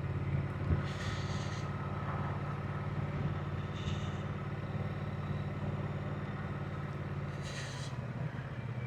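Triumph motorcycle engine running steadily while riding, with three short bursts of hiss.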